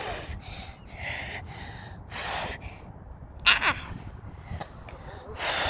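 A child blowing short, breathy puffs of air, five in a row about a second apart, as she blows fluffy seed "cotton balls" off their stems; the puff about halfway through is louder, with a brief voiced squeak.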